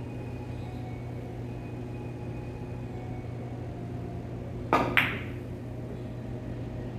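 Billiard shot: two sharp clicks about a third of a second apart, the cue striking the cue ball and then the ball clacking into another ball, heard over a steady low room hum.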